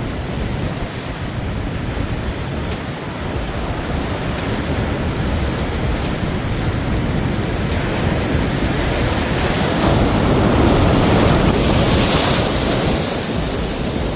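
Loud, steady rushing noise without distinct tones or impacts, growing louder with a hiss about ten to thirteen seconds in and easing near the end.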